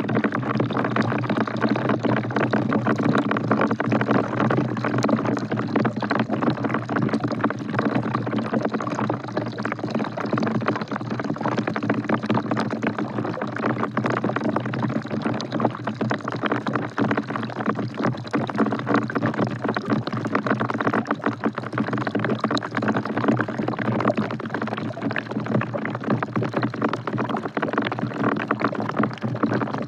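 Steady rain falling into a bucket: a dense, continuous patter of drops splashing into water.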